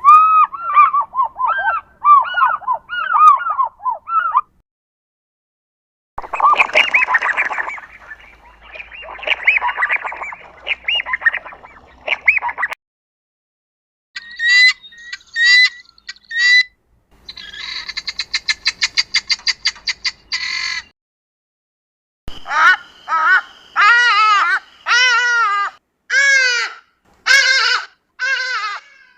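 Recorded calls of several southern African bird species, played one after another with short silences between them; the first is an African fish eagle's call, a run of ringing, arching notes. Later calls include a fast run of clicking notes and a series of loud yelping notes that fall in pitch.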